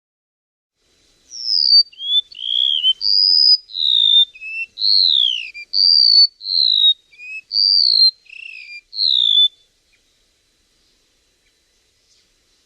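Song of a chim sâu (flowerpecker): a run of clear whistled notes and slurs, many falling in pitch, from about a second in until near ten seconds, then a pause. It is the 'kéo đờn' song used as a lure call for bird trapping.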